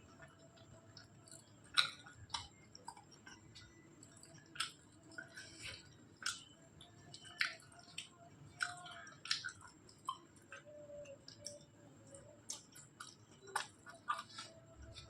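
Close-up chewing of soft rice and curry, with irregular wet mouth clicks and lip smacks.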